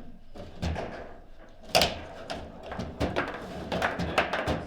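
Table football being played: the hard ball knocking against the player figures and the table walls and the rods clacking, a run of sharp knocks with a loud crack about two seconds in and a quick flurry of hits near the end.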